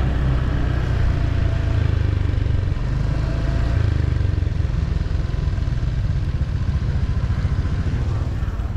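Motor vehicle engine running steadily on the move, a low rumble with road noise.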